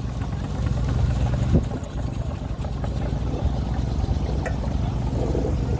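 Low steady rumble of quarter-scale steam traction engines moving around the arena, with a couple of short sharp clicks.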